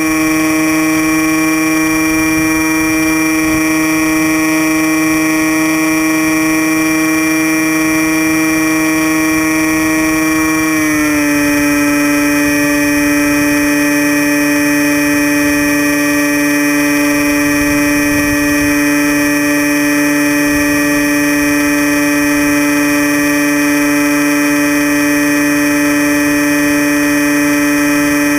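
Electric motor and propeller of a radio-controlled Storm Chaser model plane, heard from a camera mounted on the plane: a loud, steady whine that drops slightly in pitch about eleven seconds in as the motor slows.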